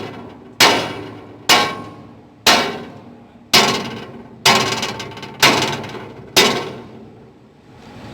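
Hammer blows on the barge's steel plating, about one a second, seven strikes, each clanging and ringing away before the next, as a gap in the plate is hammered tight.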